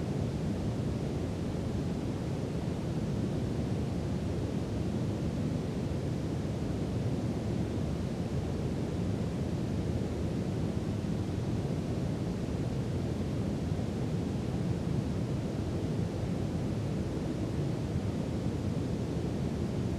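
Brown noise: a steady, deep rushing hiss that never changes, most of its weight in the low end.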